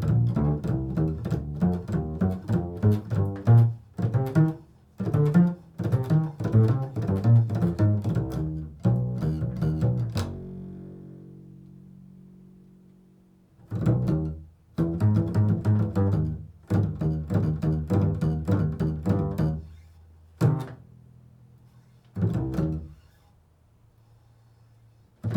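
Improvised solo music on a low-pitched plucked string instrument, based on the interval of a third. Quick runs of notes, then one long note dying away about halfway through, another run, and a few single plucks with quiet gaps between them near the end.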